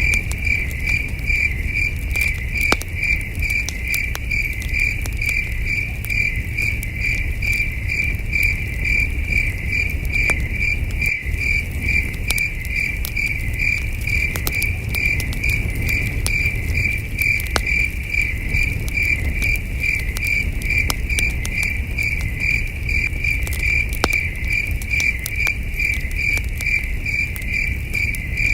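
Crickets chirping in an even, unbroken pulse of about two chirps a second, with the scattered crackle and pops of a campfire over a steady low rumble.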